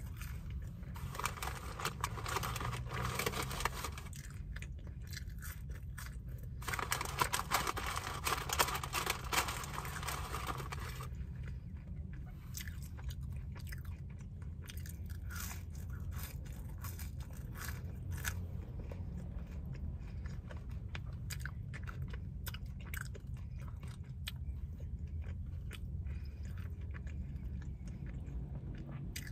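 Close-miked chewing of a burger and french fries, with two louder stretches of heavy chewing in the first eleven seconds, then quieter chewing with scattered sharp mouth clicks, over a steady low hum.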